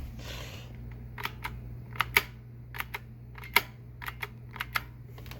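Spring-loaded on-off button of a Hoover Celebrity II Elite canister vacuum, worked by hand with the machine unplugged: a series of sharp clicks, many in quick press-and-release pairs, over a low steady hum.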